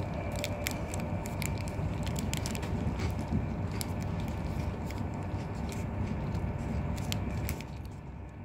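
Steady rumble of an InterCity 225 Mark 4 passenger coach running at speed on the rails, heard from inside, with many light clicks and crackles scattered through it. The rumble eases slightly near the end.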